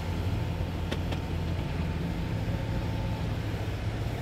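Vehicle engine idling, a steady low hum heard through an open side window.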